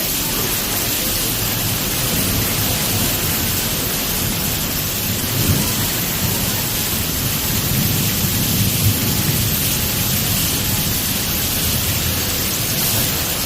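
Heavy rain pouring in a windstorm: a loud, steady hiss, with low rumbles swelling about five and a half seconds in and again around eight to nine seconds in.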